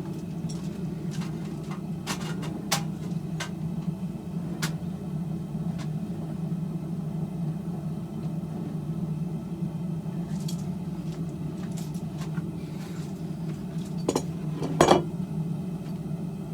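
Propane forge burner running with a steady low drone, with scattered metal clinks and knocks at irregular intervals, the loudest knock near the end.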